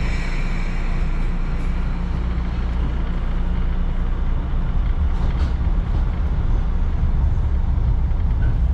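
Echizen Railway electric train running, heard from inside the car: a steady low rumble of wheels and running gear on the track, with a high whine that fades out in the first couple of seconds.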